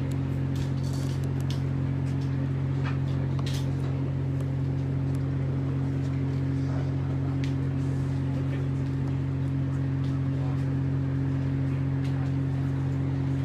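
A steady low machine hum that holds an even level, with a few faint clicks and knocks over it.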